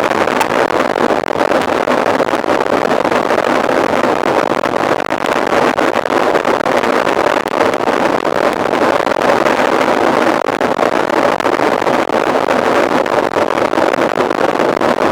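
Steady rushing of a mountain bike ridden at speed: wind on the camera's microphone and tyres rolling over the trail, with scattered faint clicks and rattles.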